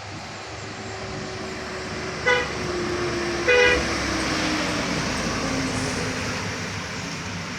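Passing road traffic with a vehicle horn tooting twice, a short blast then a slightly longer one, while an engine drone slowly falls in pitch.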